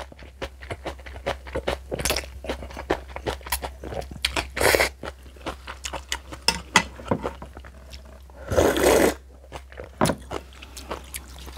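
Close-miked eating of kimchi: rapid, crisp crunches from chewing and biting. Two longer, louder noises come about halfway through and near the end.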